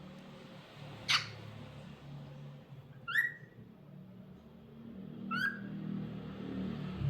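Cockatiel calling: a short sharp chirp about a second in, then two brief whistled notes that slide upward, a couple of seconds apart, over a low steady hum.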